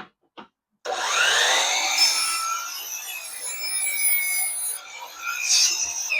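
Electric miter saw starting with a rising whine about a second in, then its blade cutting through wood for several seconds, a test cut checking that the freshly calibrated bevel cuts square. A couple of light clicks come just before the motor starts.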